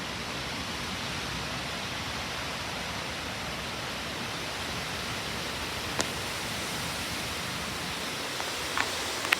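Steady rushing of strong wind ahead of a severe thunderstorm's gust front. A sharp click sounds about six seconds in, and a couple of short clicks come near the end.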